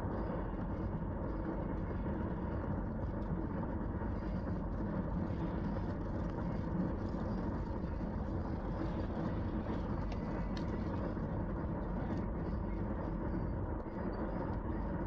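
Steady road noise inside a moving car's cabin, tyres running on a rain-wet road with the engine underneath.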